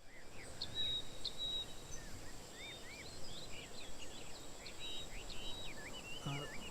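Many small birds chirping and twittering in quick short calls over a steady background hiss of outdoor ambience.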